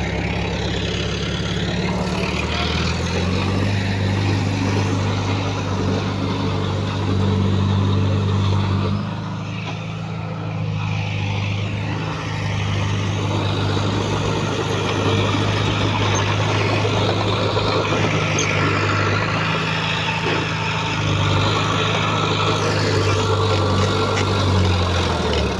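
Heavy diesel engine of an earthmoving machine running steadily, its pitch stepping up and down a few times as the engine speed changes, dipping briefly in loudness near the middle.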